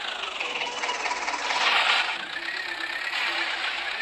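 Tractor diesel engine running, its whine dropping in pitch over the first second and rising back toward the end, with a brief louder surge about halfway through.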